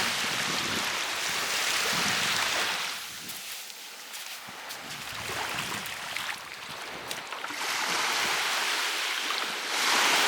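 Sea waves washing onto the shore, a rushing wash that swells, fades away about four seconds in, and builds up again near the end.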